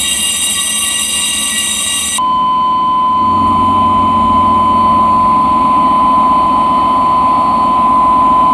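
Ship's emergency alarm: an alarm bell ringing until about two seconds in, then giving way to a single steady alarm tone held without a break, over constant ship's machinery noise.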